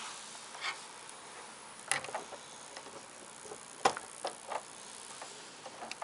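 A few separate light clicks and knocks of hard plastic being handled, the loudest about two and four seconds in.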